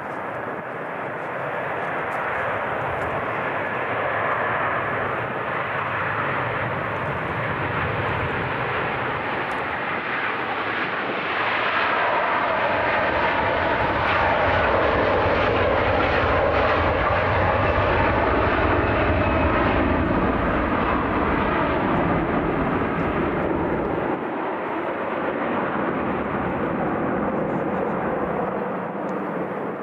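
Airliner's engines at high power as the aircraft passes: a loud roar that builds to a peak in the middle, with a whine that falls in pitch as it goes by, then eases off.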